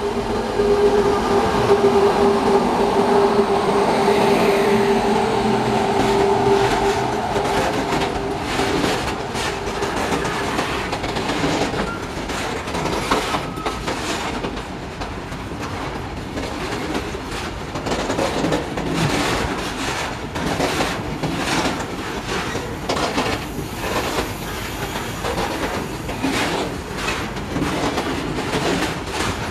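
Indian Railways freight train of BCNA covered wagons rolling past at speed, its wheels clattering in a repeated clickety-clack over the rail joints. A steady tone sounds over the rumble in the first several seconds as the head of the train goes by.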